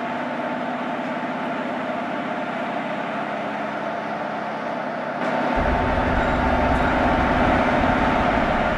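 Train running: a steady rumble with a steady hum in it, growing louder and deeper about five seconds in.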